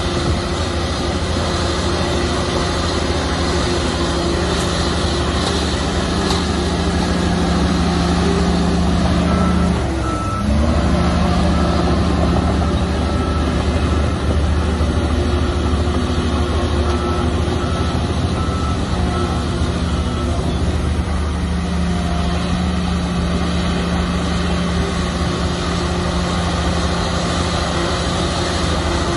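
Shantui bulldozer's diesel engine working under steady load. About ten seconds in the engine note dips briefly, and a reversing alarm starts beeping and repeats for about ten seconds.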